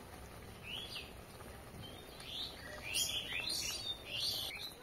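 Birds chirping: a string of short, quick calls that sweep up and down in pitch, starting about a second in and growing busier over the second half.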